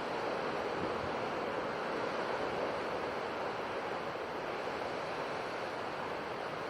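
Sea surf washing ashore: a steady, even rushing of waves without distinct breaks.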